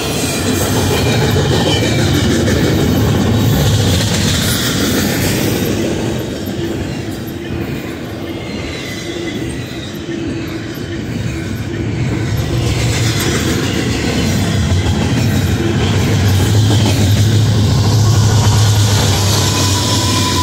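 Double-stack container well cars rolling steadily past, wheels clacking and rumbling on the rails with a faint thin wheel squeal. In the last few seconds a steady low diesel drone grows louder as a Union Pacific mid-train locomotive comes by.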